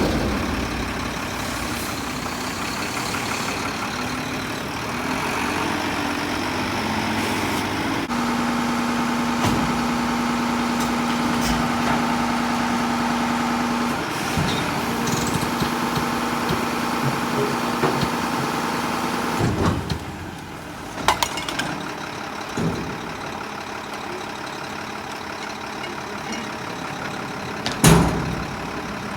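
Mack front-loader garbage truck with a Heil body running, its engine raised with a steady hydraulic whine for about ten seconds while the hydraulics work, then dropping back to idle. A few sharp metal knocks follow near the end.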